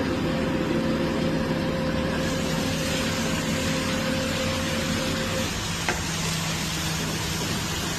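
Rollback tow truck running under load, a steady engine hum with a held hydraulic whine over it that stops about five and a half seconds in. A single faint click follows.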